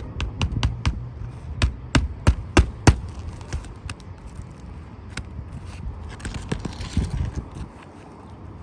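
Hand hammer striking on an asphalt shingle roof: a run of sharp blows about three a second, the loudest two to three seconds in, then lighter, scattered taps, as when nails are driven to fasten a shingle.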